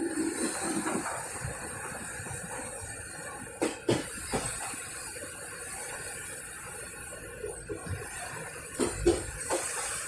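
Running noise of a moving passenger train heard from inside a coach: a steady rushing hiss, with a few sharp clunks from the wheels on the rails, two pairs of them about four and nine seconds in.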